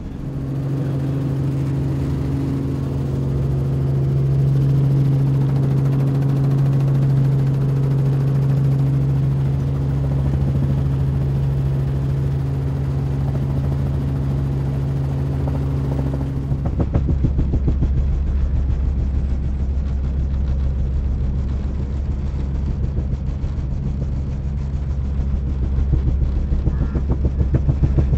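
Helicopter running steadily with a continuous engine and rotor hum. About two-thirds of the way through, the sound changes abruptly to a deeper, rapidly pulsing rotor beat.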